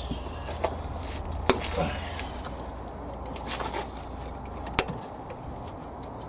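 Scattered metallic clicks and knocks from hand tools and parts being handled during timing-belt removal on a Toyota AE92 engine, two of them sharp and loud, about a second and a half in and near the end, over a steady low hum.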